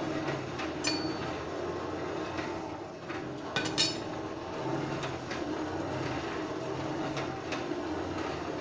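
Sharp metallic clinks of blacksmith's tongs and steel bars, one ringing briefly about a second in and a quick cluster of clinks around three and a half to four seconds in, over a steady forge noise.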